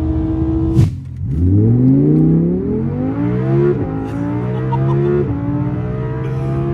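Audi R8 engine accelerating hard through the gears: after a steady run and a sharp crack about a second in, the engine pitch climbs steeply, drops suddenly at an upshift around the middle, climbs again and drops at another shift.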